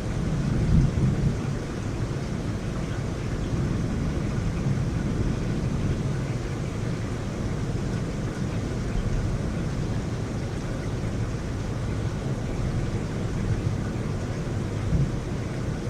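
Heavy rain pouring steadily during a thunderstorm, with a low rumble of thunder swelling about a second in and a smaller one near the end.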